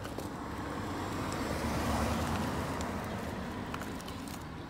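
A car driving past, its road and engine noise swelling to a peak about two seconds in and then fading away.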